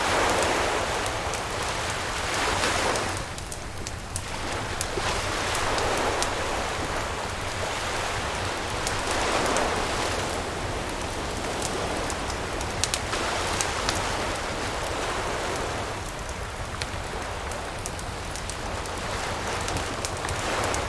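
Waves washing ashore, swelling and fading every few seconds, with a wood campfire crackling and popping over them in many small sharp clicks.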